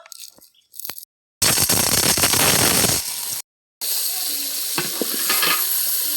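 Food sizzling as it fries in a pan, in two short clips split by a brief cut, with occasional clinks of a spoon stirring it.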